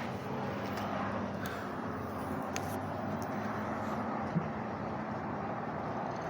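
Steady outdoor background noise with a faint low hum and a few light clicks.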